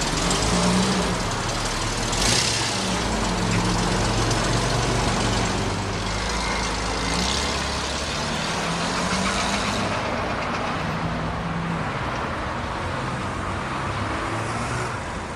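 Motor vehicle engine running amid steady traffic noise, its low tone shifting in pitch as it goes.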